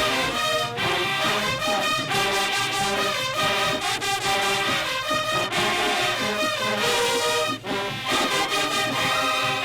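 High school marching band playing, a full brass section (trumpets, trombones, tubas) carrying the tune in sustained chords over sharp percussion hits.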